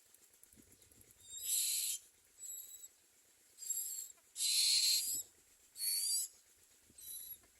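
Common myna nestlings giving six harsh, high-pitched begging calls, each under a second long, the longest and loudest about halfway through.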